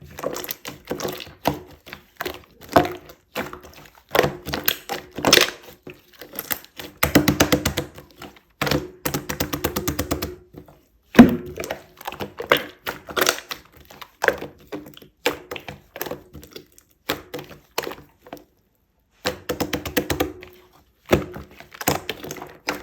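Taps, knocks and clinks of cocktail making: glassware, ice and utensils being handled, with quick runs of rapid clicks about seven and nine seconds in.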